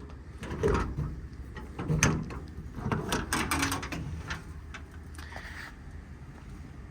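Metal tool-compartment door on a truck service body being handled and opened: a few separate clunks and rattles, the loudest about two seconds in.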